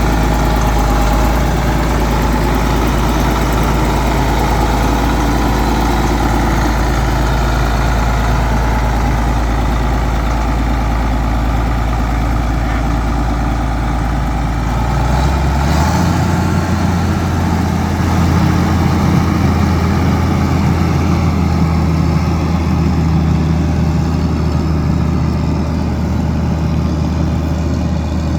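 Case 1370 Agri-King tractor's six-cylinder diesel engine idling steadily, then speeding up about halfway through and holding a higher, steady speed.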